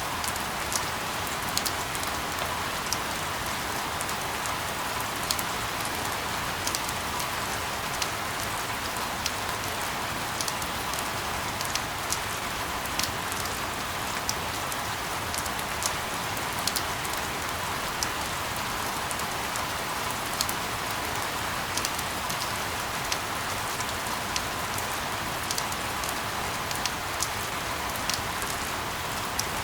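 Steady rain used as sleep white noise: an even, unchanging hiss with many sharp drop ticks scattered through it.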